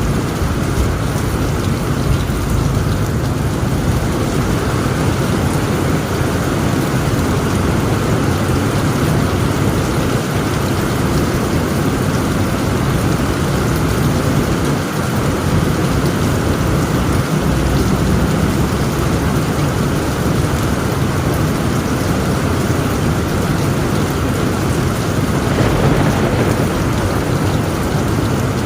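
Heavy rain beating steadily on a tent roof, under a continuous low rumble of thunder. A brief louder swell comes near the end.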